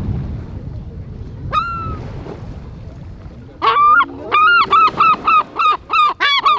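A shorebird on the beach calling: one sharp call, then from about halfway a rapid run of about nine loud, repeated calls. Wind rumbles on the microphone at the start.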